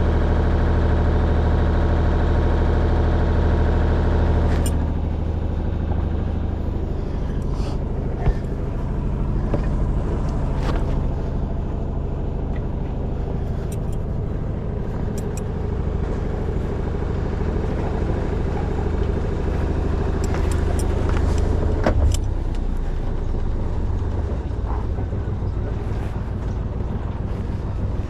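A sailing yacht's inboard engine running at low revs. Its steady, even hum turns rougher and less even about four and a half seconds in, with a couple of sharp knocks.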